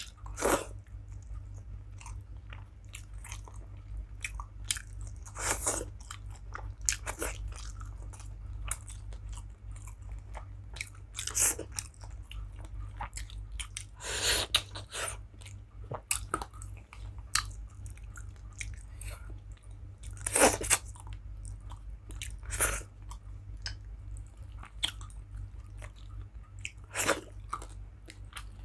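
A person eating close to the microphone: steady chewing and biting with wet mouth sounds, broken by several louder bites or crunches spaced a few seconds apart.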